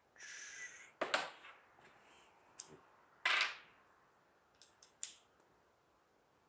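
Small tools and metal carburettor parts being handled while the main jet is tightened into a Keihin carburettor: a brief scrape, a few sharp clicks and taps, and a short rustling burst about three seconds in.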